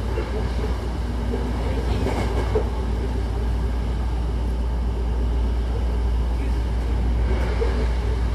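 Hankyu Takarazuka Line electric commuter train running at speed, heard from inside the carriage: a steady low rumble of wheels and running gear on the rails.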